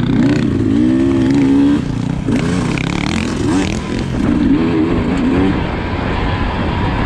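Sherco SE300 two-stroke enduro motorcycle engine revving up and down under throttle, its pitch rising and falling in quick waves.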